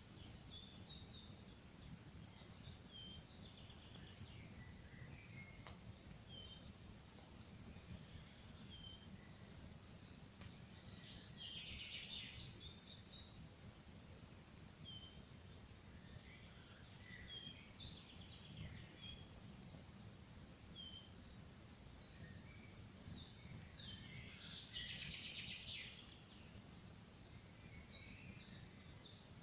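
Many small songbirds chirping and calling, with two louder stretches of dense trilled song, over a faint steady low rumble.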